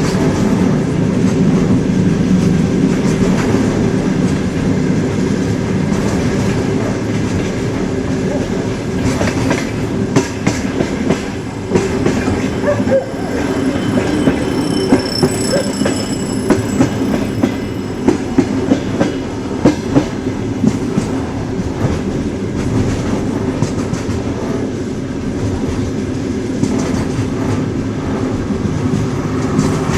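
Train running along the track: a steady low rumble of wheels on rails, with sharp, irregular clacks of the wheels over rail joints coming thickest in the middle stretch.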